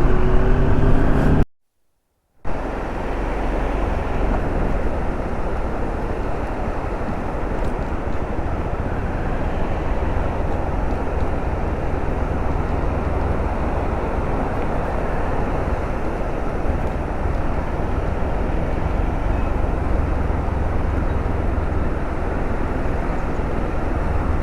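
Steady low rumble and rush of a vehicle on the move, with wind noise, after about a second of silence at an edit near the start.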